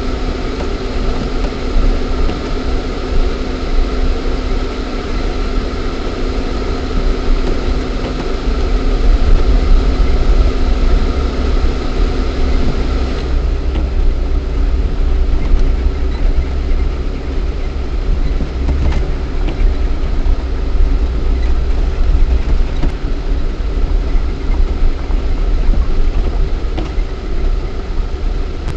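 Lada Niva 1.7i's four-cylinder petrol engine running as the 4x4 drives, heard from inside the cabin with a steady low rumble. About 13 seconds in the engine note changes and the hiss above it drops away.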